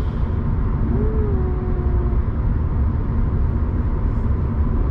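Road noise inside a moving car: a steady low rumble of tyres and engine at road speed.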